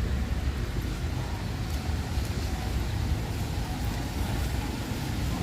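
Outdoor street ambience on a rainy, windy day: a steady, gusty low rumble of wind on the microphone mixed with passing road traffic.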